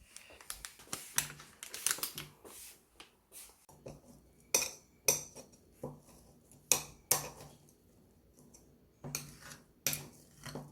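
Tableware clinking and knocking: utensils and dishes handled as food is served, in scattered sharp clicks at irregular intervals.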